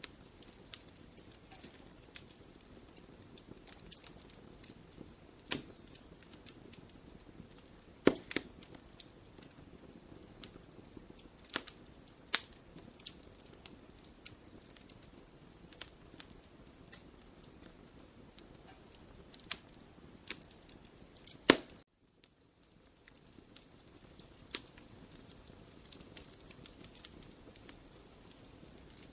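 Wood fire burning in a fireplace, crackling with scattered sharp pops over a soft, steady hiss; a few pops are much louder than the rest. The sound drops out briefly about two-thirds of the way through.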